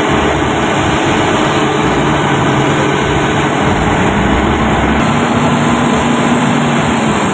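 Cement mixer truck engine running steadily, a loud even rumble.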